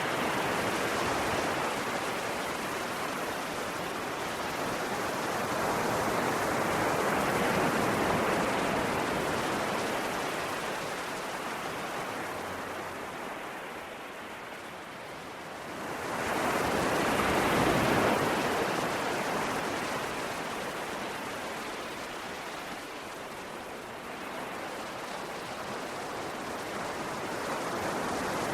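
Ocean waves breaking on a shore in slow swells, the wash of surf rising to a peak about 8 seconds in and a stronger one at about 17 seconds, then ebbing.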